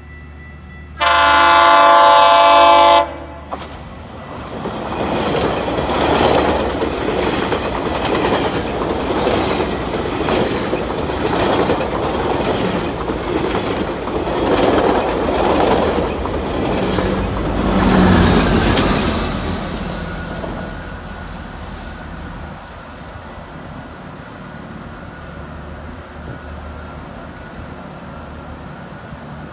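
GO Transit bilevel commuter train sounding one loud horn blast of about two seconds that cuts off sharply. Then it passes close by for about fifteen seconds, its wheels clicking over the rail joints in a steady rhythm, before the sound fades away.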